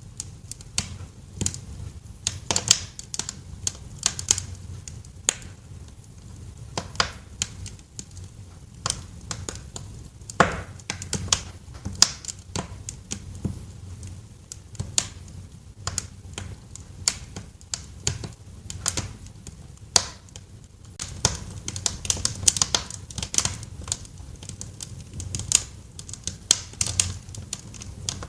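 Wood fire crackling in a fireplace: irregular sharp snaps and pops, several a second, with one stronger pop about ten seconds in, over a steady low rumble.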